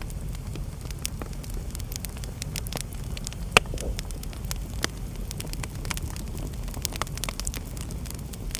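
Fireplace fire crackling, with scattered irregular pops and one louder pop about three and a half seconds in, over a steady low rumble.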